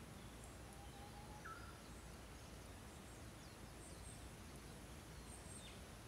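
Small birds chirping faintly: a few short, high calls scattered through, over a steady low hiss.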